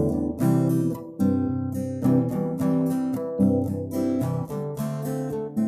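Background music: strummed and plucked acoustic guitar playing a rhythmic accompaniment.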